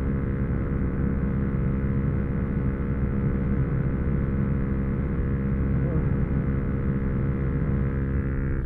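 Yamaha YZF-R125's 125 cc single-cylinder four-stroke engine running at a steady pitch while cruising, with wind rush over it.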